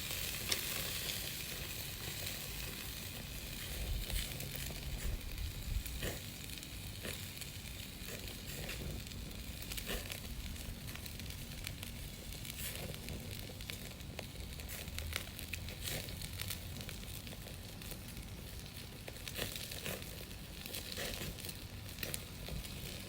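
Wood fire burning: a steady hiss with frequent scattered crackles and pops.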